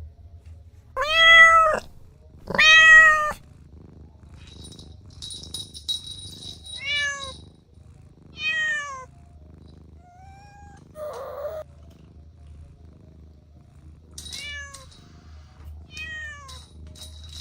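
Cat meowing repeatedly: two loud, drawn-out meows a second or so in, followed by several shorter, softer meows that fall in pitch.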